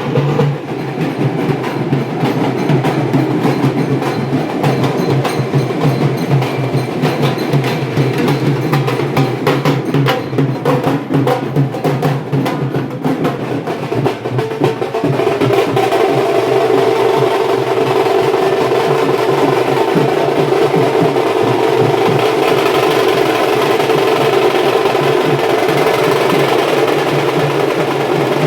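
Procession drums beating fast and loud. About halfway through, the drumming gives way to a steady, continuous sound.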